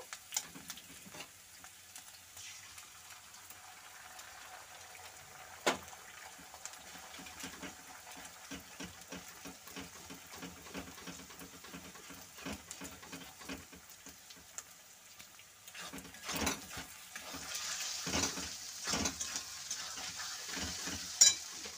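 An egg and diced vegetables sizzle in hot oil in a metal kadai while a spatula stirs and scrambles them, scraping and tapping against the pan. The sizzling and scraping get louder in the last few seconds.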